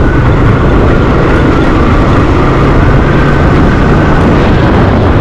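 Motorcycle being ridden on the road: a steady engine and road sound with heavy low rumble, no let-up.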